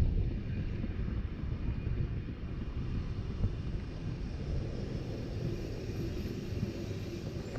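Steady low rumble of an RhB narrow-gauge train running along the line, heard from on board.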